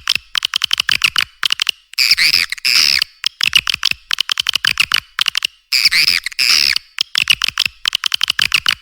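Swiftlet calls from a lure recording played to draw swiftlets into a nesting house: rapid trains of sharp chirping clicks alternate with harsher rasping screeches. The pattern repeats about every four seconds.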